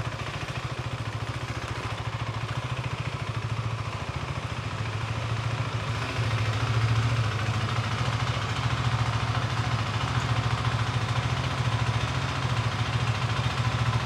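Husqvarna Svartpilen 401's single-cylinder engine running with a steady, rapid beat, getting louder about six seconds in.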